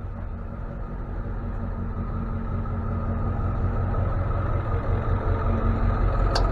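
Truck engine running steadily with a low hum, gradually getting louder, with two sharp clicks near the end.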